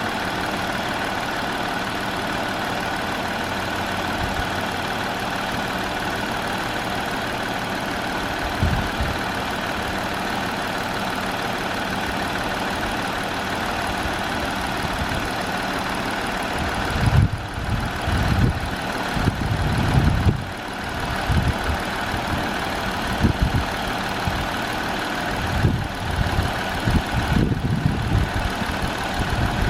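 2020 Jeep Wrangler idling: a steady drone with several held tones. About halfway in, irregular low thumps join it.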